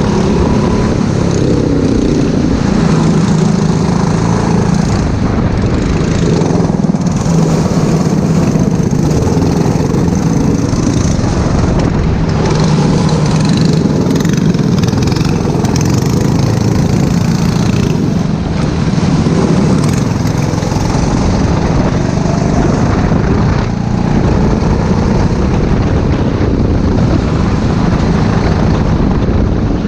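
Four-stroke racing kart engine running hard, its pitch rising and falling as it revs up and drops back.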